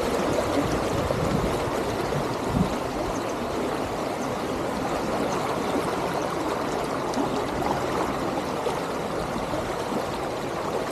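Steady rush of flowing water from a hill stream and waterfall.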